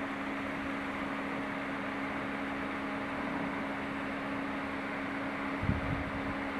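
A steady rushing noise with a low two-note hum, and a brief low thump about five and a half seconds in.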